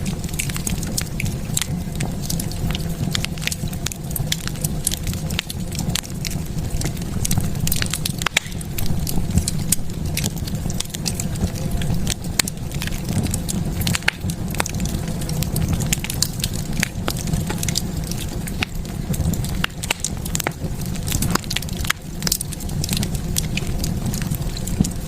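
Wood fire burning in a fireplace, with steady low flame rumble and frequent sharp, irregular crackles and pops.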